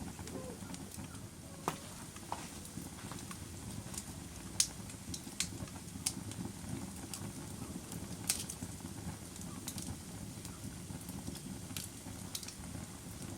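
Log fire burning with a steady low rumble of flames and scattered sharp crackles and pops at irregular moments, the loudest pop about four and a half seconds in.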